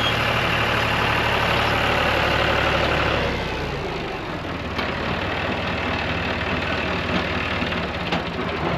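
John Deere tractor engine running while pulling a bush hog rotary cutter through pasture, a steady mechanical drone that eases off and drops lower about three seconds in.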